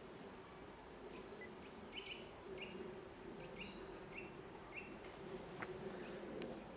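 Faint outdoor ambience: a small bird repeats short chirps about once or twice a second over a low, steady background hum.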